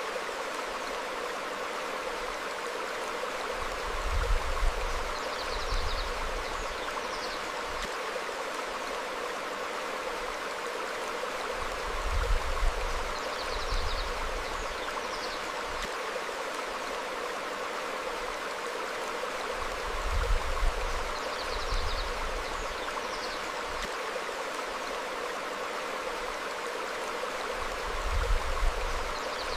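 A stream flowing over rocks with a steady rush of water, and faint short bird chirps now and then. A low rumble comes and goes about every eight seconds, four times, and is the loudest thing heard.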